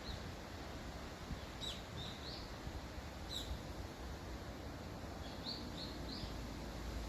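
Warbling white-eyes giving short, high chirps in small clusters of two or three, some flicking upward at the end, over wind rumbling on the microphone.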